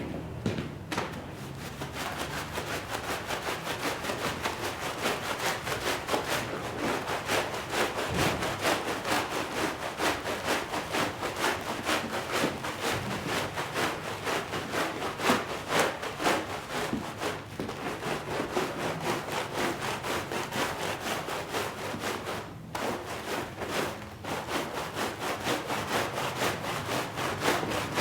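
A stiff brush scrubbing a shag rug in quick, repeated strokes, with a few brief pauses in the second half.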